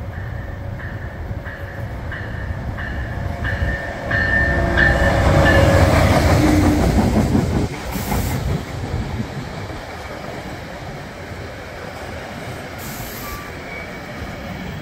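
NJ Transit push-pull commuter train approaching and passing close by, its sound building to its loudest about four to seven seconds in, then the multilevel passenger cars rolling past on their wheels. A regular high ringing tone, about one every 0.7 s, sounds during the approach, and two short hisses come near the middle and toward the end.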